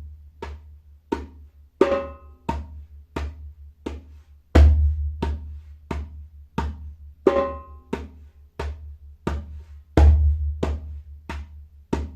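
Djembe played by hand, slowly and in cycles, one rhythm repeating without stopping: a deep bass stroke, three medium strokes, a high stroke, then three more medium strokes. Each cycle lasts about five and a half seconds.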